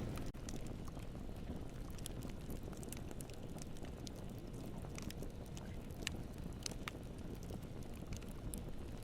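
Campfire burning: a steady low rumble of the flames with scattered sharp crackles and pops from the burning wood.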